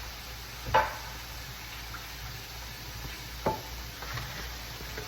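Kitchenware clinking twice, about a second in and again past three seconds, each knock ringing briefly, with a fainter tap after, over a steady faint hiss.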